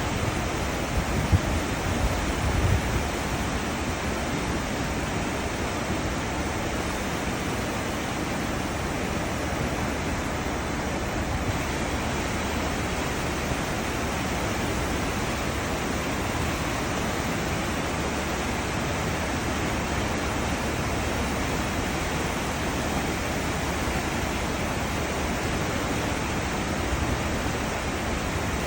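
Cruise ship's wake: a steady rush of churning seawater, with a few brief louder low surges in the first few seconds.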